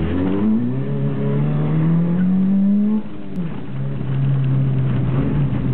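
Chevrolet Cobalt engine heard from inside the cabin, accelerating hard from a standing launch: the revs climb for about three seconds, drop sharply at an upshift, then build again more slowly in the next gear.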